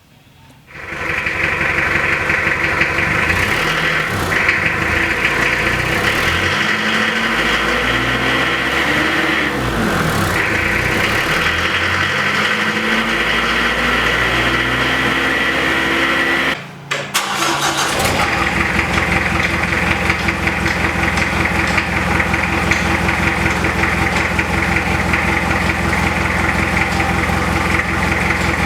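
Diesel car engine running through an exhaust rigged with a home-made trick to sound louder, starting up, revving so the pitch rises and falls several times, then, after a brief break, running steadily at idle.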